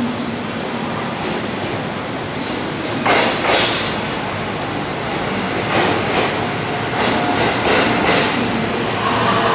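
JR East HB-E300 series hybrid train rolling slowly into the station platform. Its wheels clack over rail joints from about three seconds in, with a few short, high wheel squeals after that.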